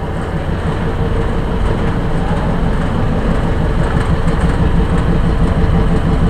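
Vintage railway crew speeder running along the track: its engine and steel wheels on the rails make a loud, steady noise that grows slightly louder as it goes.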